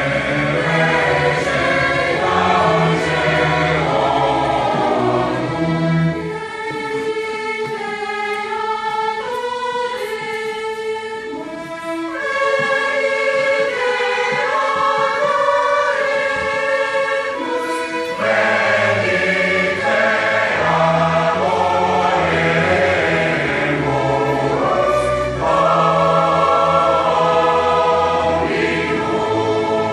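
A choir singing held chords, the notes changing every second or so. The low notes drop out for several seconds about six seconds in, leaving only the higher voices, then return.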